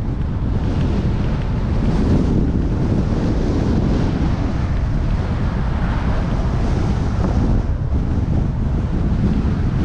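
Strong wind buffeting the microphone of a camera on a moving bicycle: a loud, steady low rumble.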